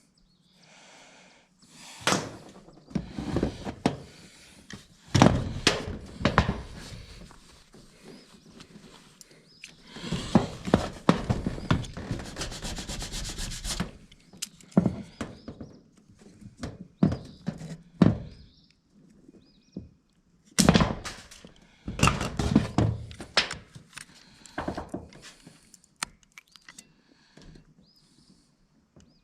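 Hands-on repair work on a corrugated metal roof: a series of thunks, knocks and rubbing scrapes, with a few seconds of rapid, steady rattling a little before the middle.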